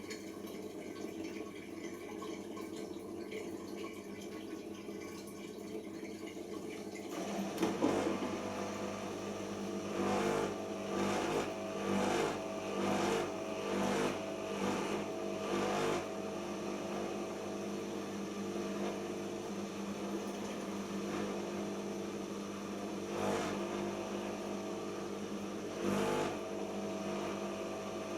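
Siemens iQ 1430 washing machine at the pre-wash spin stage: water running out first, then about seven seconds in the drum motor starts with a steady hum. For several seconds the hum surges about once a second as the drum turns, then it settles into a steady run.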